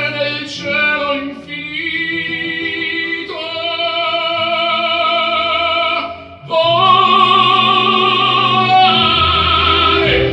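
Operatic singing: a high voice holds long notes with vibrato over instrumental accompaniment, with a short break about six seconds in.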